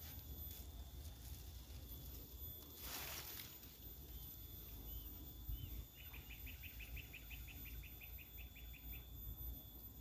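Faint open-air ambience with a steady low rumble. A brief rustle comes about three seconds in. From about four and a half seconds in a small bird gives a few separate chirps, then a quick run of short repeated notes lasting about three seconds.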